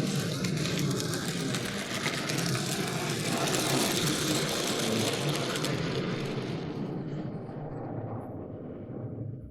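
Vehicle noise: a dense rushing sound over a steady low hum, its hiss fading away over the last few seconds as the vehicle moves off.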